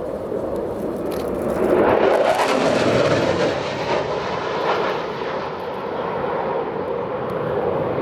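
Panavia Tornado's twin RB199 turbofan engines at full thrust on a jet flypast. The noise swells about a second and a half in, is loudest for the next second or two, then dulls as the high end fades while the jet passes and moves away.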